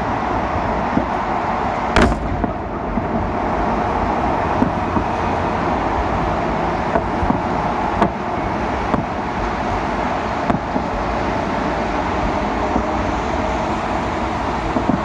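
Bangs from a festive fireworks salute, heard at a distance: one sharp bang about two seconds in, the loudest, and a few fainter bangs later, over a steady outdoor background noise.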